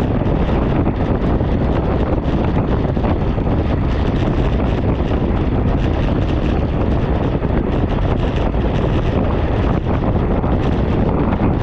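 Steady, loud wind buffeting the microphone of a camera on a moving bicycle.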